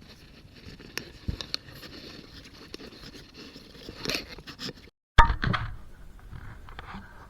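Rustling, scraping and small clicks of objects being handled. About five seconds in the sound cuts out briefly and comes back with a sharp knock that rings for a moment, the loudest sound here.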